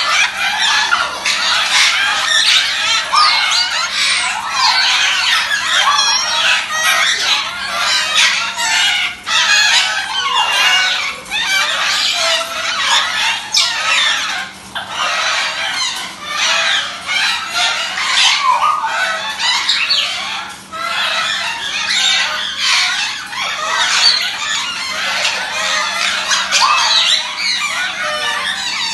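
Baby African grey parrot squawking almost without pause: the food-begging calls of a chick being hand-fed.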